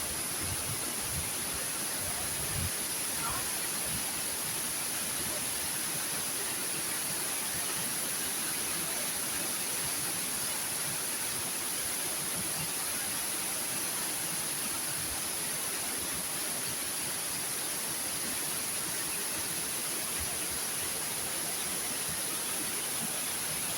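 Steady rushing roar of a waterfall, even and unbroken throughout.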